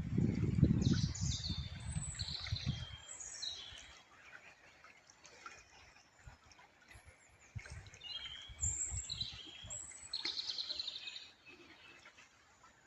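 Small songbirds chirping and twittering, with many short high calls and a quick trill about ten seconds in. A low rumble fills the first three seconds.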